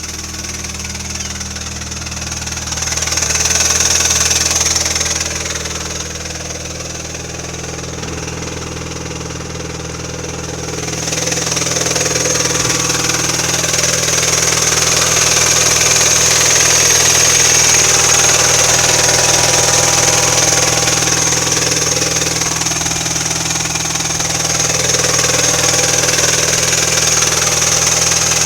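MINI Cooper R56 four-cylinder petrol engine idling with the intermittent abnormal noise that shows up every two to three weeks and usually settles after a few minutes of running. A high-pitched note sits over the steady idle, and the engine gets louder briefly about three seconds in, then again about eleven seconds in, where it stays.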